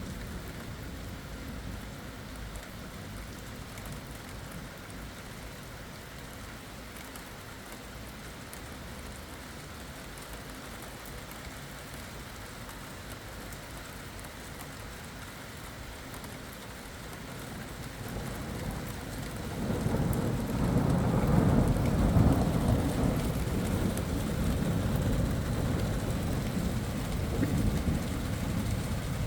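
Steady rain falling during a thunderstorm. About two-thirds of the way through, a long low roll of thunder builds and keeps rumbling to the end.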